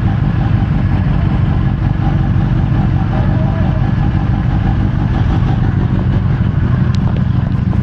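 Sportbike engine running steadily at a constant low speed, without revving.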